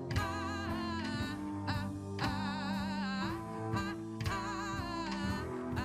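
Live band playing a pop-soul song: drums, bass and guitar under a woman singing long, wavering held notes.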